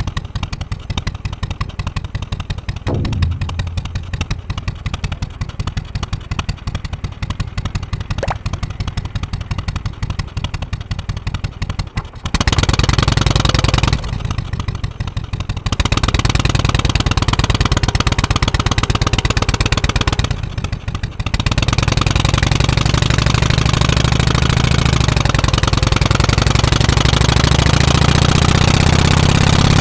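Harley-Davidson FXSTC Softail Custom's 1340 cc Evolution V-twin idling with a low rhythmic pulse. About twelve seconds in it gets much louder as it runs under load with wind noise. The level dips briefly twice before climbing again.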